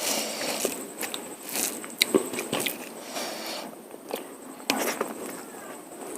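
Close-miked eating sounds: a person chewing mutton curry and polao rice, with several sharp clicks and smacks through the chewing.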